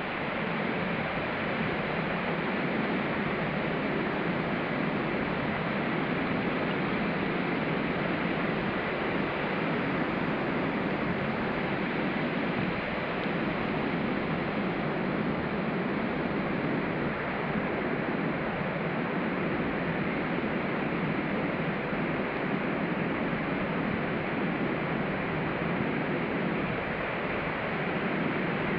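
Ocean surf breaking and washing onto a sandy beach: a steady, unbroken wash with no single wave standing out.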